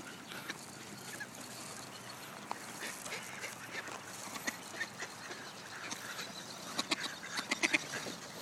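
Ducks quacking faintly around the walker, with a quick run of quacks near the end.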